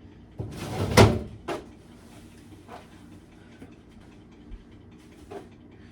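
Things being handled and set down while a refrigerator is emptied: a sharp knock about a second in, then a few softer clunks.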